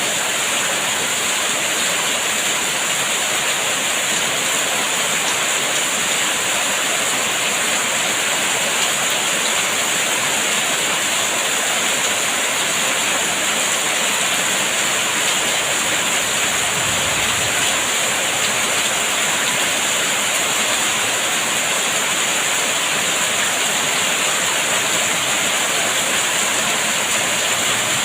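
Steady heavy rain, a continuous even hiss with no breaks or changes.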